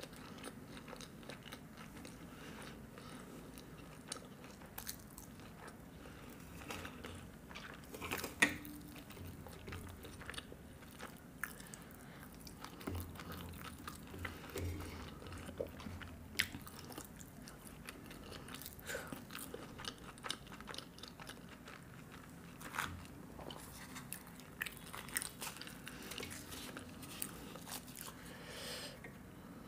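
Close-miked eating sounds: a person chewing, with scattered crisp crunches and small wet mouth clicks, one louder crunch about eight seconds in.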